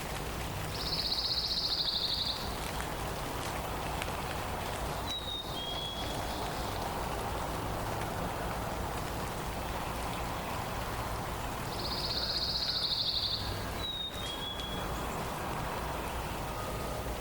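Songbirds over a steady background hiss: a loud, dry, rapid trill about a second and a half long, heard twice, and a short two-note whistle with the second note lower, also heard twice.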